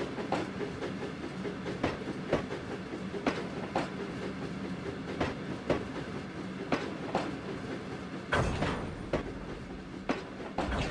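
Train wheels clicking over rail joints, often in pairs, over a steady running rumble. A louder, rougher rumble sets in near the end.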